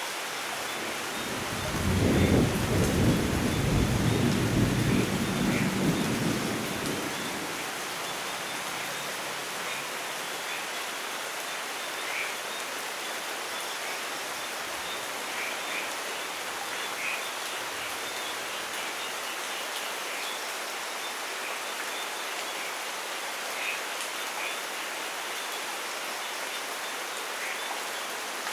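Steady heavy rain with a long rumble of thunder that starts about a second and a half in, is loudest for the next few seconds and dies away by about seven seconds; rain alone continues, with a few drips standing out.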